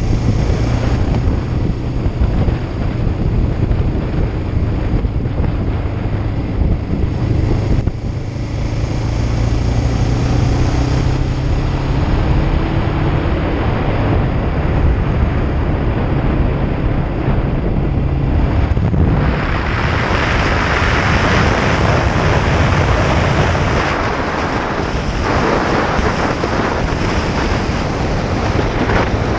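Kawasaki Ninja 500's parallel-twin engine running at a steady speed under way, with wind rushing over the camera microphone. About two-thirds of the way through the wind noise swells and largely drowns the engine.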